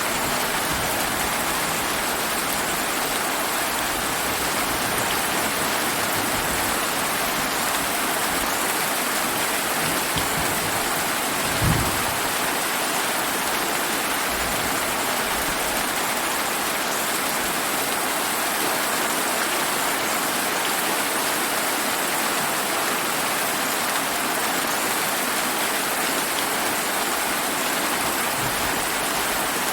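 Steady rain falling, an even dense hiss. About twelve seconds in, a single brief low thump.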